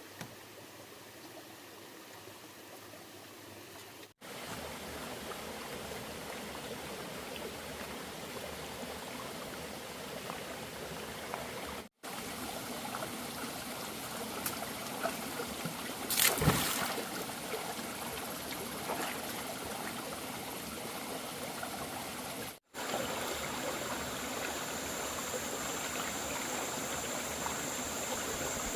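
Steady rush of a flowing stream, broken by three brief drops to silence about 4, 12 and 23 seconds in. About 16 seconds in there is one short, louder knock, and a steady high whine joins the water for the last few seconds.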